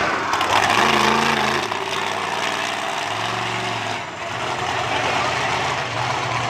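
Monster truck engine running at low revs, its pitch stepping up and down a few times with light throttle.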